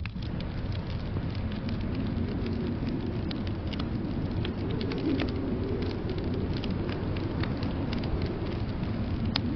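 Wood fire crackling in a fireplace, with irregular small pops, over a steady low rumble of blizzard wind that swells slightly after a couple of seconds.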